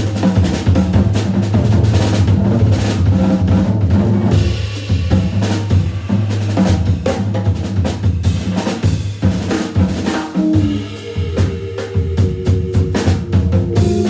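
Drum kit soloing in an organ jazz trio: dense, busy drumming over a steady held low note from the Hammond organ's bass. About eleven seconds in, organ chords come back in over the drums.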